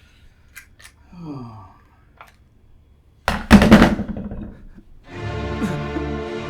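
A few faint clicks and a brief low falling sound, then a loud sudden hit a little over three seconds in. Music with sustained notes starts about five seconds in.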